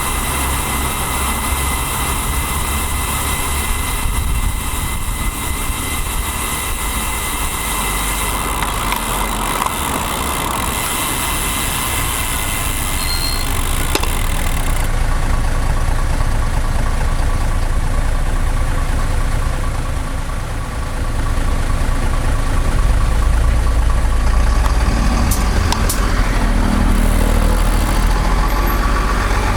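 Road traffic heard from a bicycle-mounted camera: motor vehicle engines running nearby over a continuous low rumble, getting louder in the second half.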